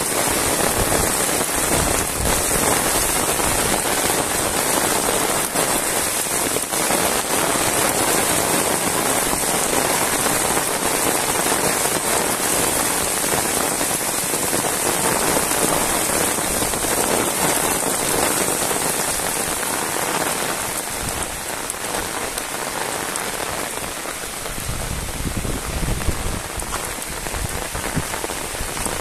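Heavy rain pouring steadily onto a wet paved road and roadside grass, a dense, even hiss of countless drops, with a brief low rumble near the end.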